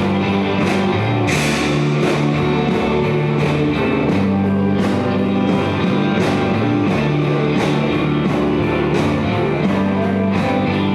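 Live rock band playing an instrumental passage with no vocals: electric guitars, sustained bass notes and a steady drumbeat with cymbal hits about twice a second.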